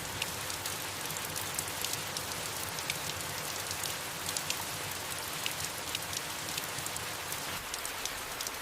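Steady soft rain falling on leaves, an even hiss with many small scattered drop taps.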